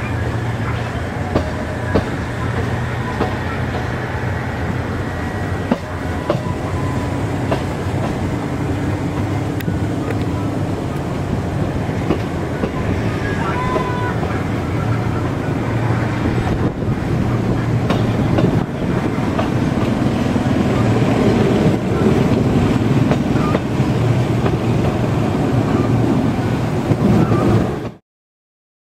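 Passenger train running on the metre-gauge line, heard from on board: a steady rumble of the wheels on the rails with scattered clicks. It grows louder in the last third, then cuts off suddenly near the end.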